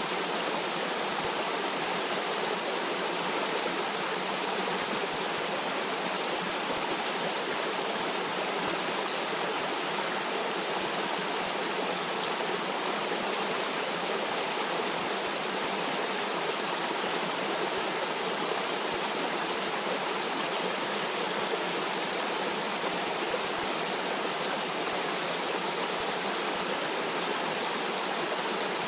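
Stream water running over stones, a steady rushing noise that does not change.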